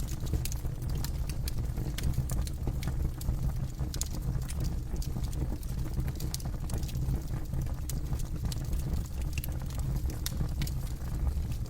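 Campfire burning with irregular sharp crackles and pops over a steady low rumble of flame.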